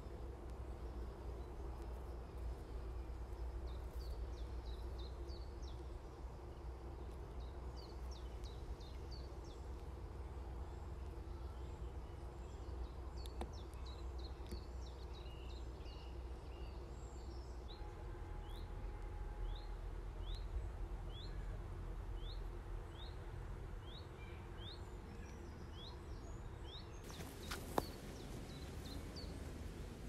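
Birds chirping and calling over a steady low rumble. From a little past halfway, one bird repeats a short call about once every half second. There is a single sharp knock near the end.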